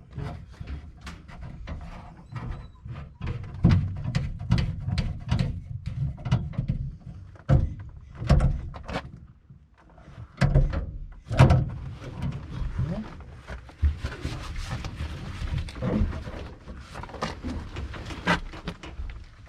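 Irregular knocks and clanks over a low rumble, from hands and tools working on a truck while its brake-fluid leak is traced. Short bits of voice can be heard in between.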